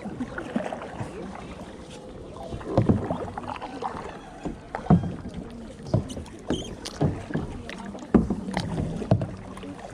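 Kayak paddling: paddle blades dipping and splashing in the water, with irregular sharp knocks, a few louder than the rest.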